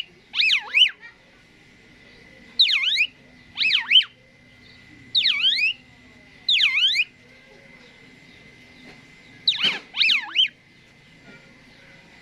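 Asian pied starling (jalak suren) calling. It gives a series of loud whistled phrases, each swooping down and back up in pitch, repeated every second or two with a longer pause midway.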